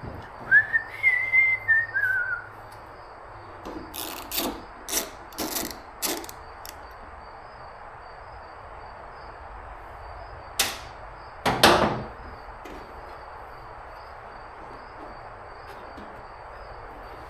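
A person whistles a short phrase that rises and then falls. Then come two clusters of brief rasping, tearing noises from work on the car's body, with the loudest one about twelve seconds in.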